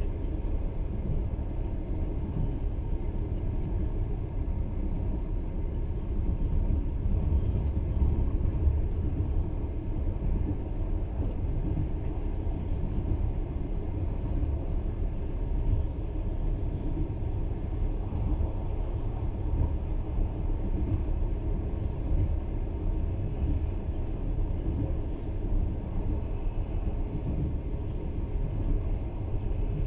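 Moving passenger train, a steady low rumble of running gear on the rails.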